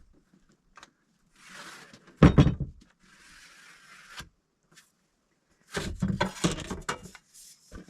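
Handling noises while working on a door: a brushing, sliding hiss, a loud clunk about two seconds in, more brushing, then a quick run of knocks and clatters near the end.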